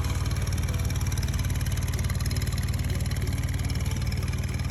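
Small vehicle engine running steadily at idle with an even, rapid putter.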